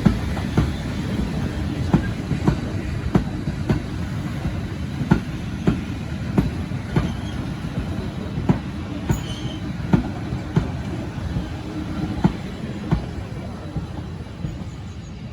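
Train running on heritage railway track, its wheels clicking over rail joints, often in pairs, every half second to a second over a steady low rumble, fading near the end.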